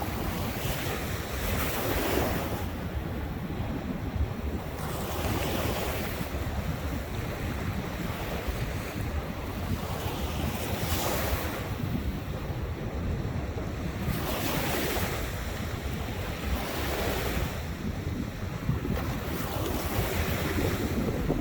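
Ocean waves breaking and washing up the shore, a fresh rush every few seconds, over a steady low rumble of wind on the microphone.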